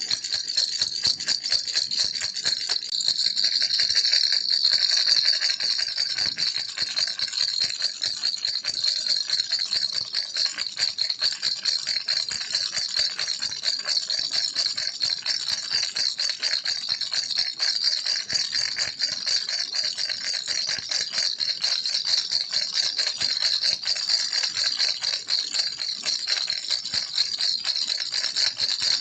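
Baby's toy rattle shaken continuously: a dense, fast stream of small high-pitched clicks and rattles without a break.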